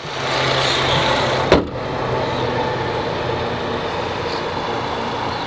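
Ford Mustang EcoBoost's 2.3-litre turbocharged inline-four idling steadily, with one sharp thump about a second and a half in as the hood is shut; the idle is a little quieter afterwards.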